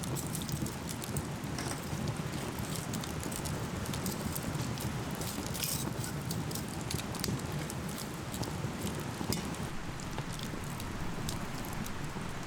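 Steady rain falling, with many small drops pattering and ticking irregularly.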